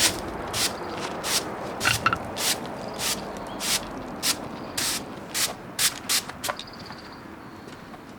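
Footsteps at a steady walking pace, about one step every 0.6 seconds, crunching on rough ground and fading away as the walker moves off in the last couple of seconds.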